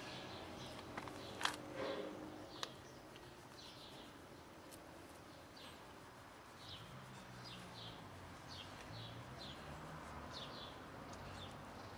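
Small birds chirping faintly in the background: many short, quick chirps. Two sharp taps come about one and a half and two and a half seconds in, the first the loudest moment, and a faint low hum runs through the second half.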